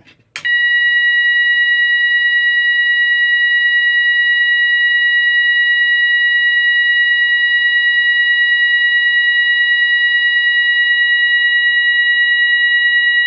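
GE AS363 electronic alarm sounder sounding its 970 Hz continuous tone, a loud, steady, unbroken shrill tone. It starts about half a second in.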